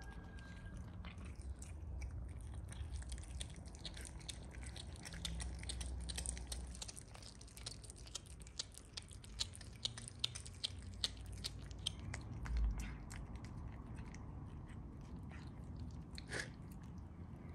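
Someone chewing crunchy food, with many small irregular crunching clicks.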